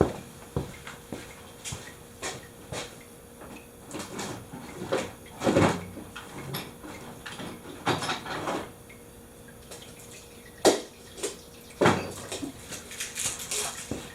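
Irregular handling noises from hands working on oil-change parts: scattered clicks and knocks with a few longer scraping, rustling sounds.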